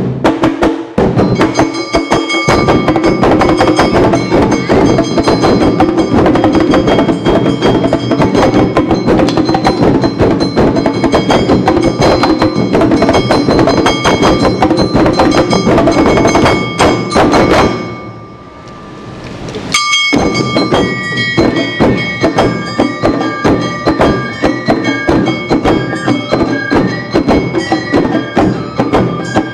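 Awa Odori hayashi music: fast, dense drumming with a high flute line over it. The music dies away briefly about 18 seconds in, then starts up again with the flute melody.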